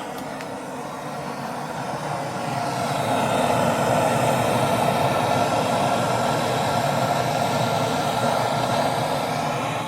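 Steady whirring of a small electric motor, with several steady whining tones over the noise. It grows louder over the first three seconds and then holds level.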